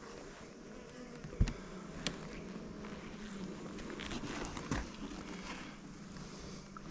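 Honeybees humming steadily around an opened hive, with a few sharp knocks, the loudest about a second and a half in.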